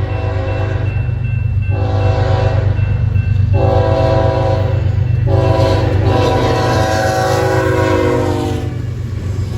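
Diesel locomotive air horn sounding its grade-crossing warning in several blasts, the last one long, over the low steady rumble of the approaching freight train.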